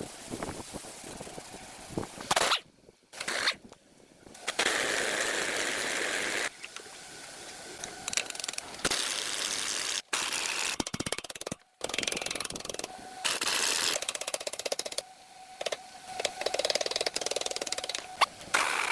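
A run of short, abruptly cut workshop machine and tool noises: rapid clicking and rattling mechanisms alternating with stretches of steady hissing noise.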